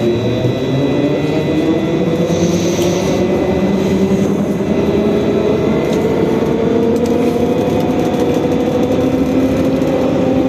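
Trolleybus electric traction motor whining in the cabin, its pitch rising slowly and steadily as the trolleybus gathers speed, over road noise. A short hiss about two and a half seconds in.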